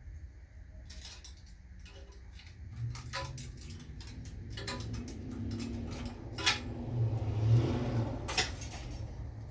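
A series of sharp metallic clanks and knocks, as of metal parts or tools being handled, over a low hum, with a rumbling noise that swells and peaks about three-quarters of the way through.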